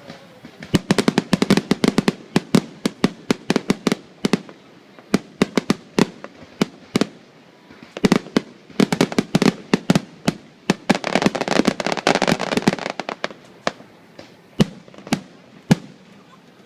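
Fireworks going off in rapid volleys of sharp cracks and bangs, three dense bursts with a crackling spell about two-thirds of the way through, thinning to a few single bangs near the end.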